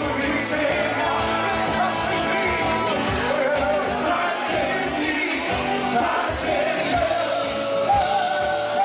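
Live band music with a steady drum beat and a sung or held vocal line.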